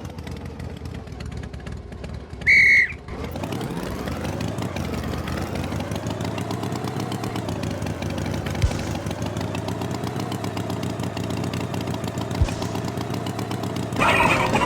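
A short, loud, high-pitched toot, then a cartoon tractor engine starts up, its pitch rising over a couple of seconds and then running steadily.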